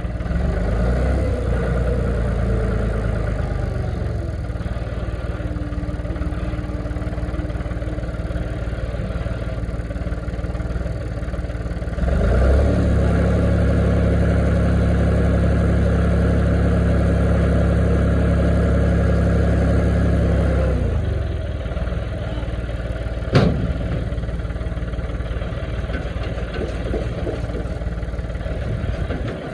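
Silage harvester engine running steadily. It grows louder and heavier for about nine seconds in the middle, then settles back. A single sharp click comes near the end.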